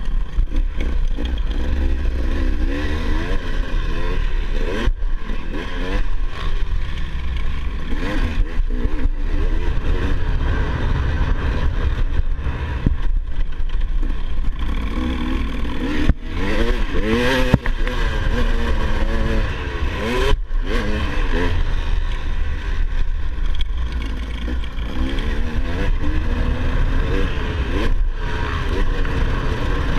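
Motocross bike engine revving up and down over and over, its pitch rising and falling as the throttle opens and closes, over a heavy steady low rumble.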